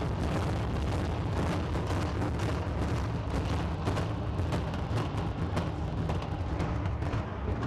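Stadium implosion: a rapid series of sharp demolition-charge cracks over a continuous deep rumble of the collapse.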